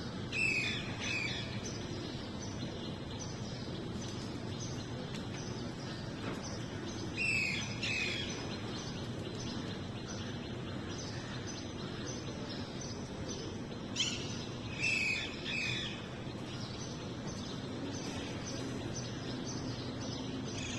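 Young parrot chirping in three short bursts several seconds apart, over a steady low background noise. A single sharp click comes just before the third burst.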